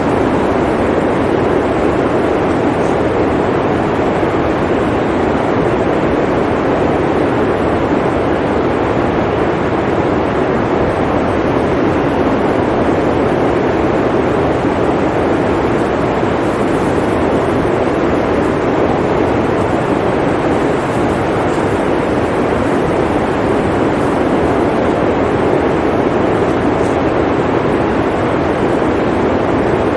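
Blizzard wind blowing in a steady, unbroken rush with a deep, full body and no gusts or pauses.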